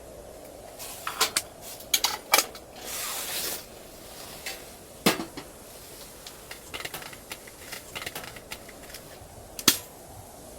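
A scattered run of sharp clicks and knocks, like things being handled and set down, with a short hiss about three seconds in, over a steady low hum.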